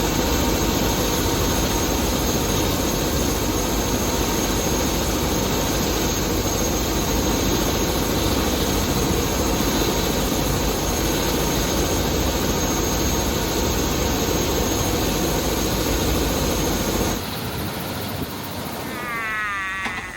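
Helicopter running: a loud, steady rush of engine and rotor noise with a thin high turbine whine. It cuts off abruptly about three-quarters of the way through, leaving a quieter background with a short wavering pitched sound near the end.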